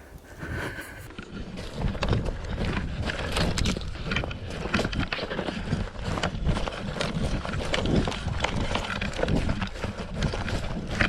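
Hurried footsteps crunching and rustling through dry brush, a quick uneven run of crunches and scrapes over a low rumble that starts about a second in.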